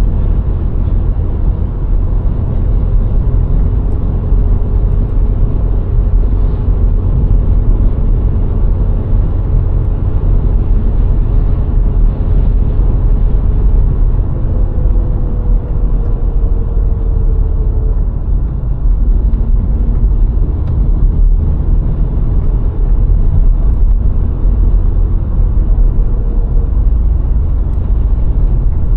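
VW Golf IV 1.6 driving along a country road: a steady rumble of engine, tyres and wind, with a faint engine note that sways a little in pitch.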